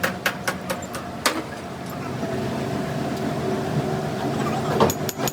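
A few sharp metal strikes, then a steady engine hum with another strike near the end.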